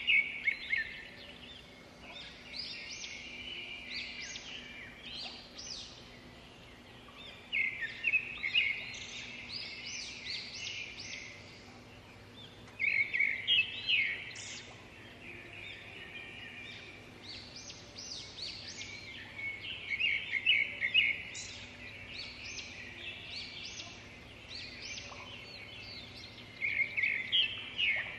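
A songbird singing, repeating a short trilled phrase about every six seconds, over a faint, steady low hum.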